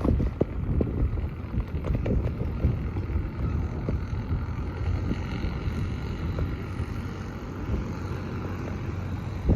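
Diesel engine of an International BTD6 crawler dozer running steadily while it tows discs across a paddock, with scattered short knocks.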